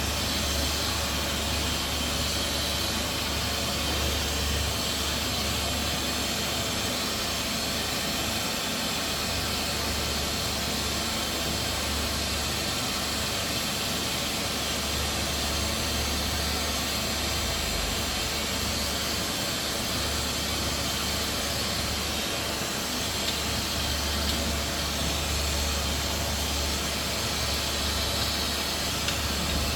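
Steady hiss over a low hum, unchanging throughout.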